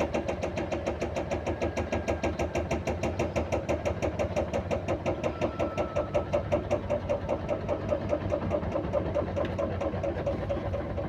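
Beko WMY81283LMB2 washing machine spinning in service mode with a rapid, regular clicking, about six or seven clicks a second, over the steady drum-spin noise. The spin is badly unbalanced.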